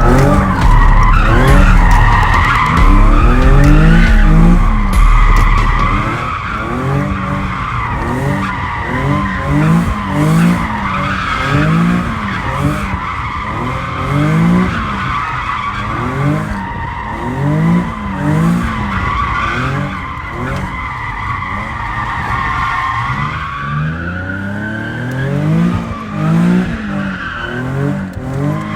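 A car doing a burnout: the tyres squeal without a break while the engine revs up and down over and over. It is loudest for the first six seconds or so.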